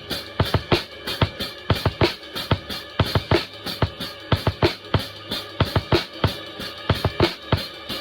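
Drum kit played in a steady, busy rhythm, with sharp kick and snare hits about four to five times a second over ringing cymbals.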